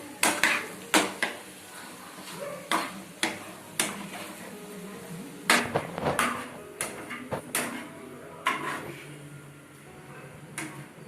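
A utensil knocking and scraping against a kadai while boiled eggs are stirred through masala, in irregular sharp clacks, more than a dozen of them.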